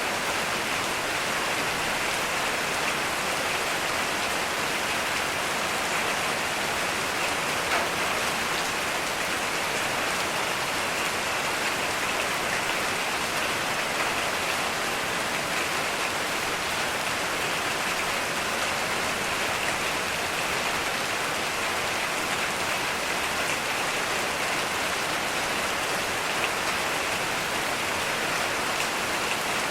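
Heavy rain falling steadily: an even hiss of drops on surfaces with no thunder.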